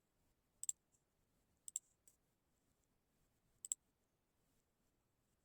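Three quick computer mouse double-clicks against near silence: the first two about a second apart, the third two seconds later.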